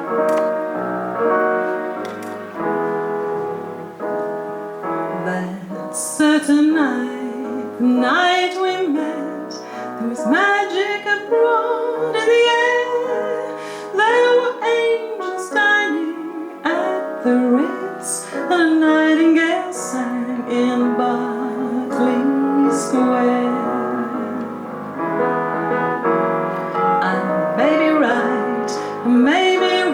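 A piano playing alone, then a woman singing with piano accompaniment from about six seconds in.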